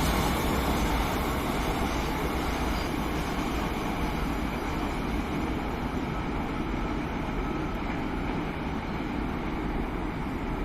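Oil tanker freight train rolling past, a steady rumble of wagon wheels on the track that eases slightly over the first couple of seconds and then holds even.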